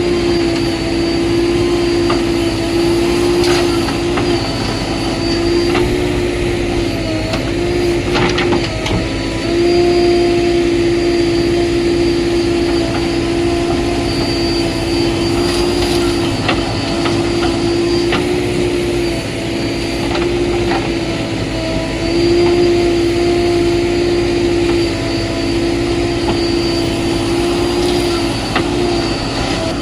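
JCB 3DX Plus backhoe loader's diesel engine running steadily with a strong whine, dipping briefly now and then as the load changes, with a few short knocks.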